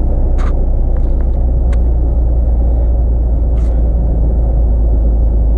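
Van's engine idling as it warms up on a frozen morning: a steady low rumble, with a few faint clicks.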